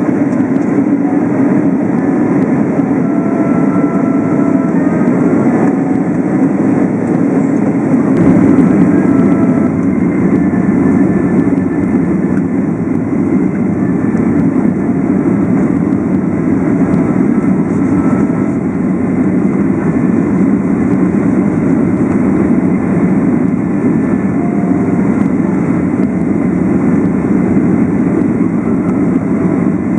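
Steady airliner cabin noise during the descent before landing: engine and airflow, heard from inside the cabin. The low rumble grows a little fuller and louder about eight seconds in, then holds steady.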